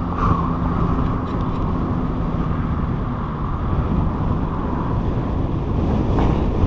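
Wind buffeting the microphone of a bicycle-mounted camera while riding, a steady low rush. A low steady hum sits under it for about the first half.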